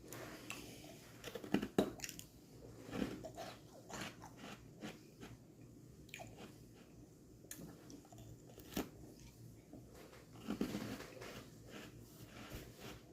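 Close-up biting and crunching into a frozen strawberry lemonade popsicle and chewing the ice, in irregular crisp bites, with loud clusters near the start and again about ten seconds in.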